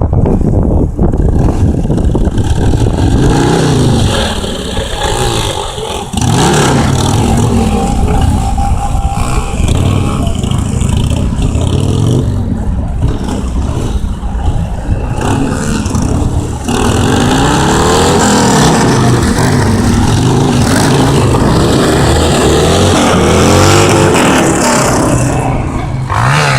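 Motorcycle engine revving up and down over and over during freestyle stunt riding, its pitch rising and falling every couple of seconds, with brief drops in level about six and sixteen seconds in.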